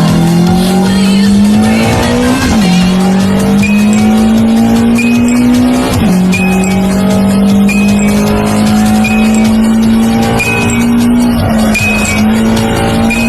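Car engine pulling hard up through the gears, its pitch climbing and then dropping sharply at each upshift, three times. Music plays along with it.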